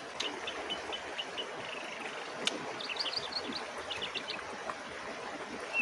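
Small birds chirping in quick series of short, high notes over a steady background hiss, with one sharp click about two and a half seconds in.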